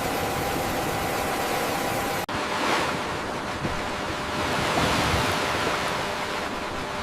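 A steady, noisy mechanical hum cuts off abruptly about two seconds in. Sea waves washing follow, surging every second or so.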